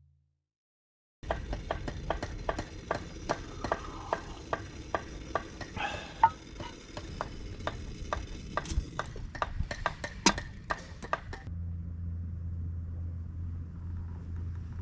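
Dense, irregular crackling and popping over a soft hiss, which cuts off about eleven seconds in; a steady low hum follows.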